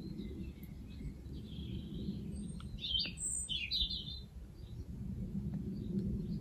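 Small birds chirping, a short cluster of calls about halfway through, over a steady low background rumble.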